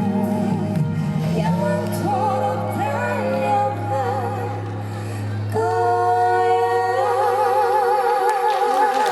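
Live band playing with a singer, over sustained low bass notes; about halfway in the singer holds one long high note with vibrato.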